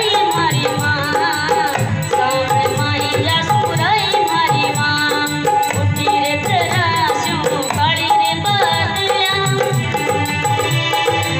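Live Rajasthani folk devotional music: a gliding melody over hand drums and a shaken rattle keeping a steady rhythm.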